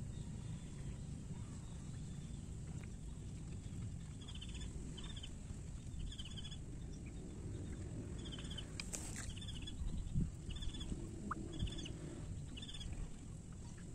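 A bird calling repeatedly, short high notes roughly every half second to a second, starting a few seconds in, over a steady low background rumble. A sharp click and a couple of low thumps come near the end.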